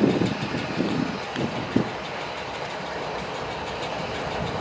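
Freight train rolling by: a steady rumble of wheels on the rails, with a couple of brief heavier knocks about a second and a half in.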